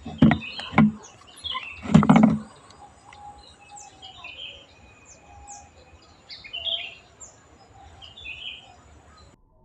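Small birds chirping: short, high calls repeated every second or so. Three or four loud low thumps come in the first two and a half seconds.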